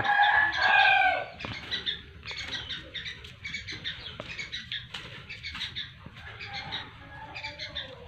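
Young birds cheeping in many short, high chirps that repeat quickly, louder in the first second or so.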